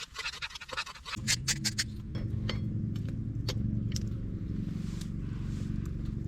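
A quick run of light metallic clinks and clicks, then from about a second in a steady low hum sets in.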